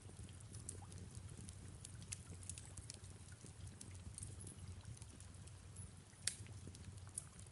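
Fireplace crackling over a low steady rumble: scattered small pops and snaps, a sharper pop about six seconds in, mixed with soft rain.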